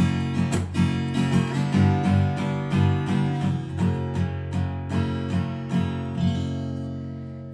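Acoustic guitar strummed in a steady rhythm between sung lines, the chords dying away near the end.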